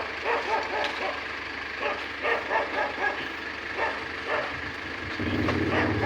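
A dog barking in short clusters of barks over a low background hum. About five seconds in, a truck engine running grows louder.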